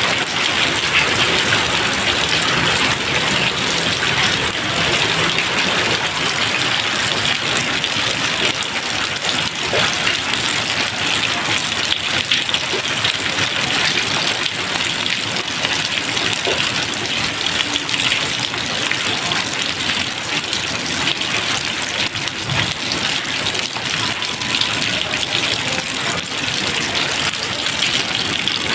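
Steady rain falling, an even continuous patter and hiss with no thunder.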